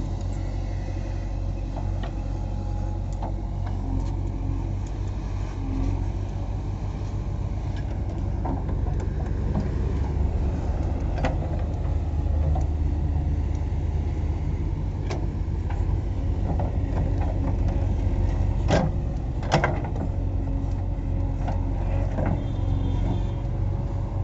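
JCB 3DX backhoe loader's four-cylinder diesel engine running steadily, with scattered sharp knocks over it; the two loudest knocks come close together about nineteen seconds in.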